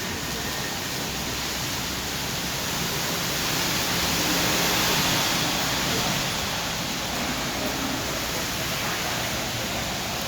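Heavy rain pouring down, a steady hiss that swells louder about four to six seconds in.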